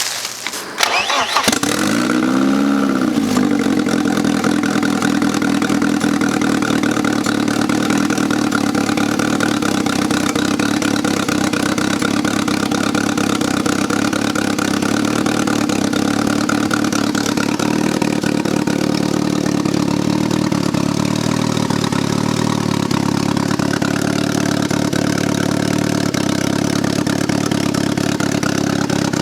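Turbocharged 1995 BMW E36 318ti four-cylinder engine being started: brief cranking, catching about a second and a half in with a short flare of revs, then settling into a steady idle.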